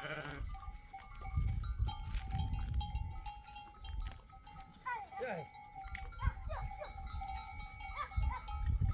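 Flock of sheep and goats with neck bells ringing steadily, and a few bleats about five to six seconds in.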